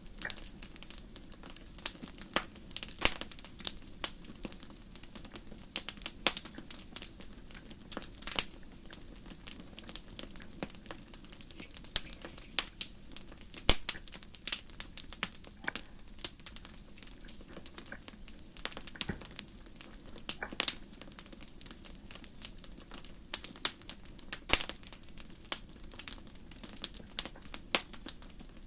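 Fire crackling, with irregular sharp pops and snaps over a steady low background rush.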